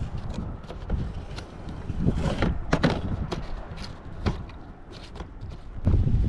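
Scattered light knocks and clicks of a plumbing vent-stack T fitting being handled and fitted onto the pipe, over a low rumble that gets louder near the end.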